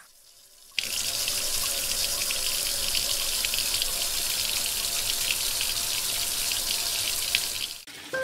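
Hot oil sizzling and crackling in a pan as garlic, chillies and spice paste fry. It starts abruptly about a second in and cuts off just before the end.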